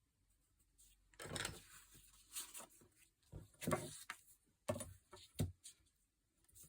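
Sheets of paper being handled, a run of short rustles starting about a second in and stopping shortly before the end.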